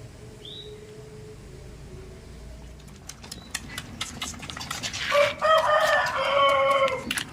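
A rooster crows once, a call of about two seconds near the end, over scattered clicking and tapping.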